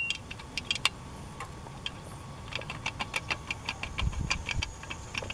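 Small metallic clicks and clinks from hand tools and bolts on a Husqvarna 61 chainsaw engine being taken apart, quickening to about five clicks a second partway through, with a dull knock about four seconds in.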